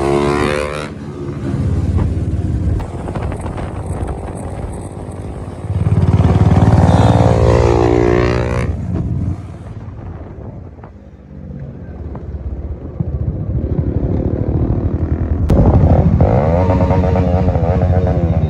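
Motorcycle engine running while riding, its pitch sweeping up and down as the bike speeds up about six seconds in and again near the end, easing off briefly in between.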